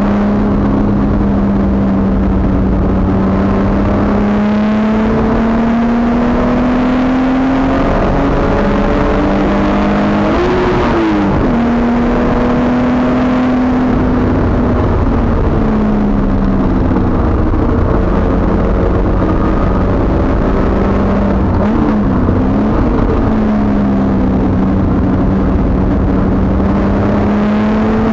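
A track car's engine, heard from inside its stripped cabin, pulling hard and steadily. Its pitch slowly rises and falls, with two brief swoops, about a third of the way in and again about three-quarters in, over loud road and wind noise.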